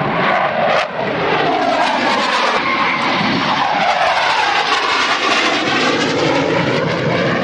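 Jet aircraft making a loud low pass, a rushing noise whose tone sweeps and shifts as it goes by.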